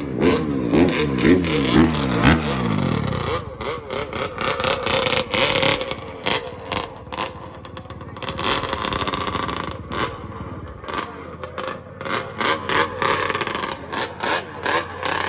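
Dirt bike engine revving up and dropping back several times in the first three seconds, then a rougher rushing noise broken by many short crackles.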